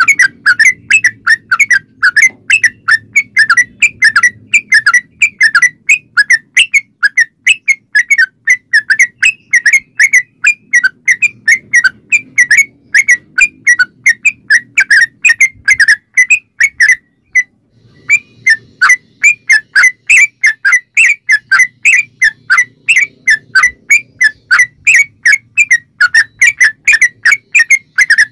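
Yellow-vented bulbul (trucukan) singing a long, rapid run of short, repeated whistled notes, several a second, broken once by a pause of about a second partway through.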